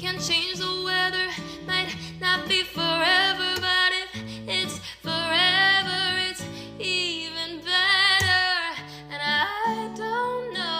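A woman singing over acoustic guitar, her voice sliding and holding long notes, a song cover in progress.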